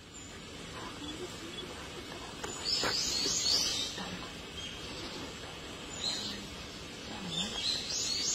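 Birds chirping over a steady outdoor hiss, with a cluster of high, quick chirps about three seconds in and another near the end.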